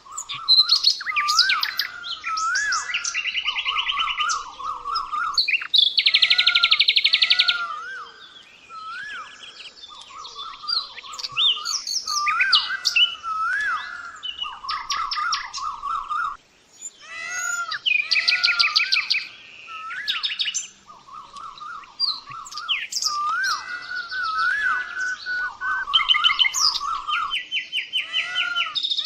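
Songbirds singing together in a busy chorus: fast buzzy trills alternating with repeated looping whistled notes, several voices overlapping.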